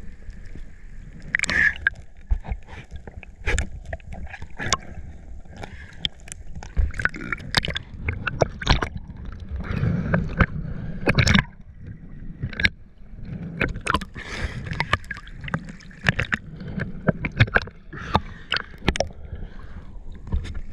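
Ocean water splashing and sloshing right at the microphone as a person swims, irregular sharp splashes over a steady low rumble of surf.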